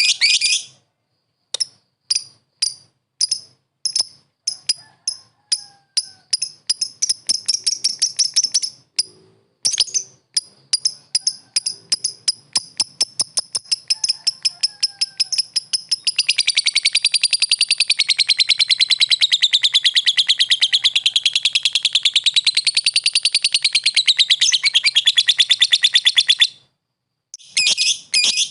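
Lovebird chattering: sharp, high chirps that come faster and faster into a rapid rattle. This turns into a long, unbroken trilling chatter that wavers up and down in pitch for about ten seconds, then stops abruptly. It is the long 'ngekek' song that lovebird keepers prize.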